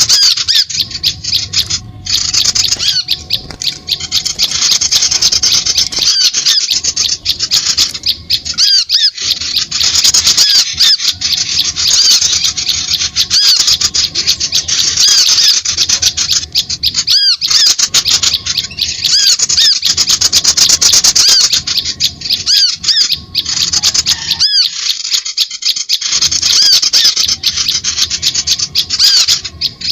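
Bird-lure recording of small birds calling: a loud, fast, dense run of high-pitched chirps and squeaks with a few brief breaks.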